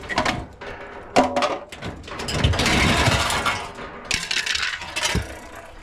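Steel dishwasher parts being pulled apart and handled during a teardown: several metal clanks, one ringing briefly about a second in, and a stretch of scraping and rattling around the middle.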